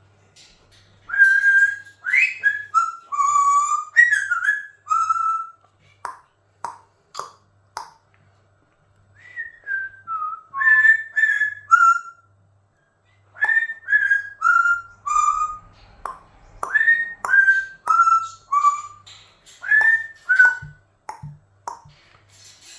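Amazon parrot whistling runs of short notes that slide downward in pitch, with a few sharp clicks between the first and second runs.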